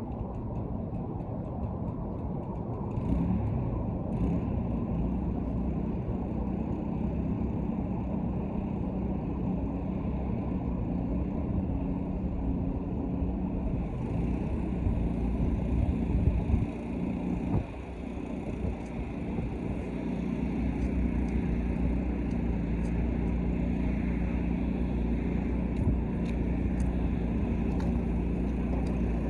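Pressure washer running steadily with a constant engine hum and the hiss of the spray, which grows stronger about halfway through. The sound dips briefly a few seconds later.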